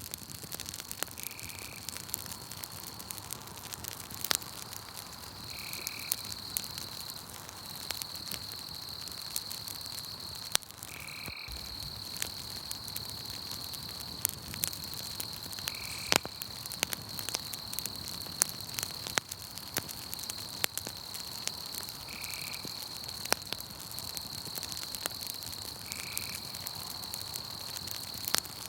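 Campfire crackling, with irregular sharp pops that are the loudest sounds, over a steady high-pitched trill of night insects. A short, slightly lower call repeats every four to six seconds.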